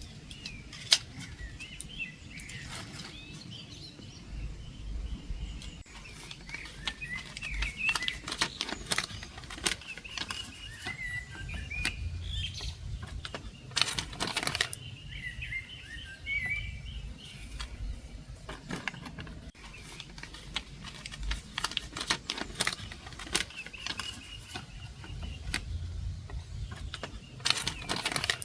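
Small birds chirping and twittering on and off, with frequent sharp clicks and knocks throughout.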